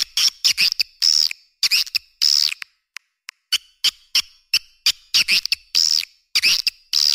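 Swiftlet lure call recording: a rapid, irregular run of short high-pitched chirps and twitters mixed with sharp clicks, with a brief lull about three seconds in. It is the calling sound played to draw swiftlets to a nesting house.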